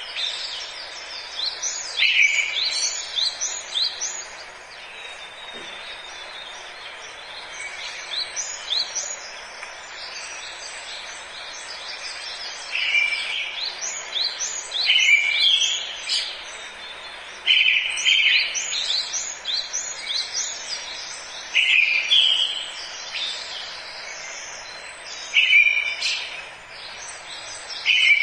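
Forest birdsong: a songbird repeats a short phrase every few seconds, each a loud opening note followed by a quick run of higher sliding notes, over a steady background hiss.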